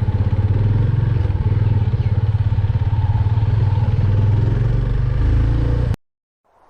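Motorcycle engine running at a steady speed, a rapid low pulsing throughout. It cuts off abruptly about six seconds in, leaving near silence.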